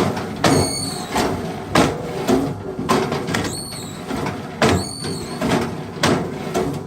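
Wood being split or chopped with hand tools: repeated heavy strikes on a log, irregular, roughly one or two a second. Several of the blows are followed by a short, high metallic ring.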